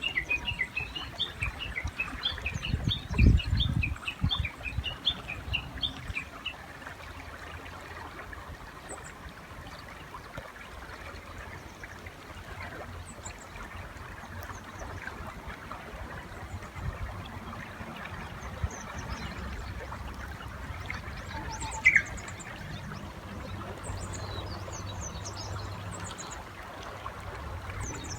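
Japanese bush warbler calling over a steadily rushing river: a fast run of repeated short notes for the first six seconds, then a short song phrase near 22 s, a low note followed by a sharp higher one. There is one low thump about three seconds in, and faint high chirps from small birds near the end.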